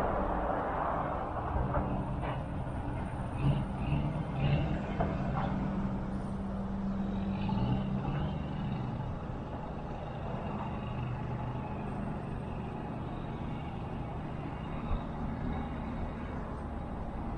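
A vehicle engine rumbling steadily at a low pitch, a little louder in the first half.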